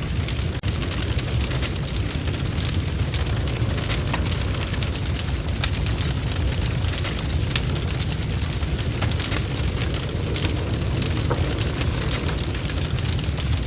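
Bonfire crackling, with frequent sharp snaps and pops over a steady low rumble of the burning fire.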